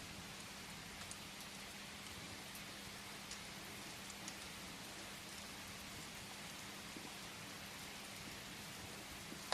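Steady rain falling, an even hiss, with a few scattered sharp clicks and a faint low hum underneath.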